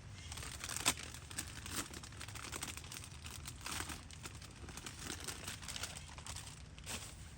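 Plastic crinkling and rustling as it is handled, with irregular crackles and a sharp one about a second in.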